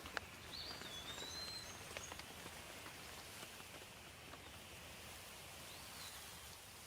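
Steady rain falling, with scattered close drops landing, the sharpest just after the start. A bird gives a short, high, gliding whistle about a second in and again faintly near the end.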